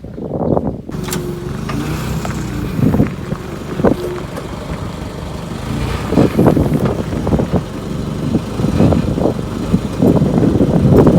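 A motor vehicle's engine running under load as it moves off, with occasional knocks and rattles.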